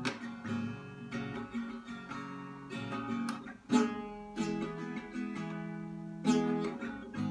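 Acoustic guitar strumming chords without singing, the instrumental close of a song, with a few harder strums standing out.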